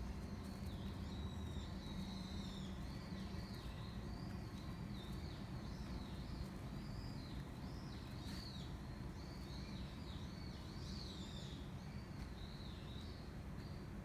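Birds chirping continuously in quick, repeated short notes over a steady low rush of wind.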